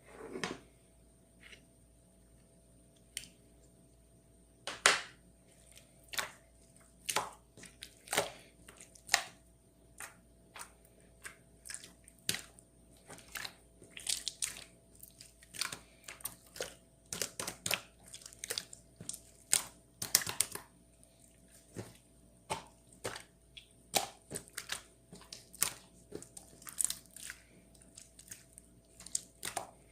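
Close-up irregular crunches and clicks, roughly one or two a second, with a faint steady high whine underneath.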